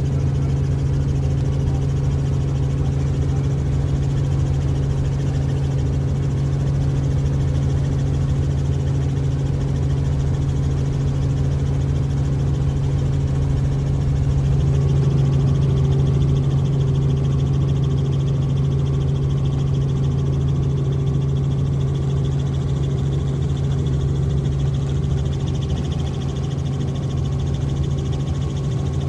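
Helicopter's steady drone of rotor and engine: a strong low hum with its overtones, growing slightly louder about halfway through.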